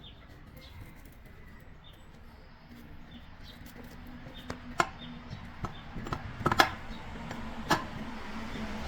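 A series of sharp knocks and clicks, starting about halfway through and loudest about two-thirds of the way in, over a faint steady low hum.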